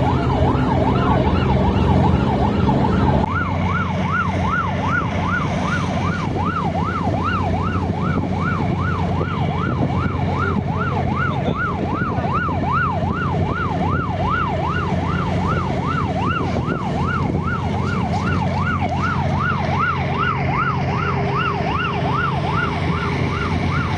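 An electronic siren wailing in a fast up-and-down sweep, a little over two cycles a second, over a steady low engine hum, with a brief change in the background about three seconds in.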